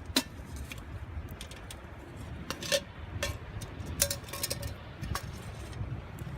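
Sharp clinks and knocks on a small metal wood stove, a few of them ringing briefly like struck metal, over a steady low rumble.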